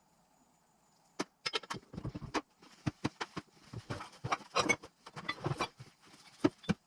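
Irregular metallic clicks, clinks and light knocks of tools and engine parts being handled during engine assembly, starting about a second in.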